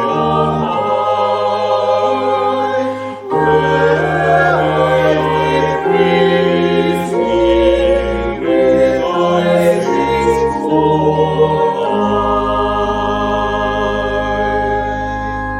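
Choir singing a sacred piece, ending on a long held chord over the last few seconds that then fades away.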